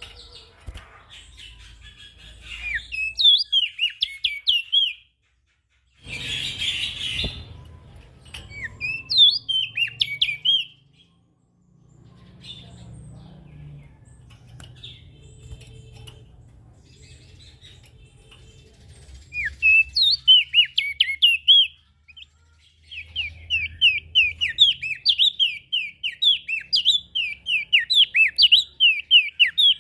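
Prenjak daun songbird singing in bouts of fast, sharp sweeping chirps, with pauses between the phrases and a longer unbroken run near the end. A brief harsh, noisy burst breaks in about six seconds in.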